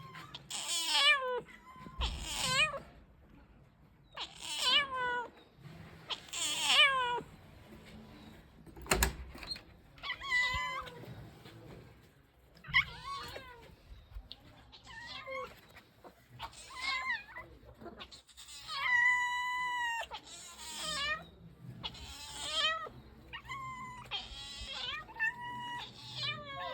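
Cats meowing over and over, about a dozen meows one to two seconds apart, with one longer drawn-out meow about two-thirds of the way through. A single sharp knock comes about a third of the way in.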